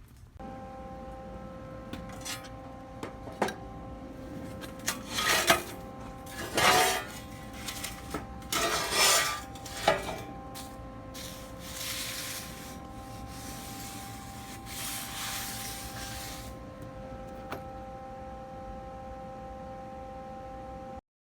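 A steady machine hum with several loud bursts of metal scraping and clattering over it, about halfway through. The hum cuts off suddenly near the end.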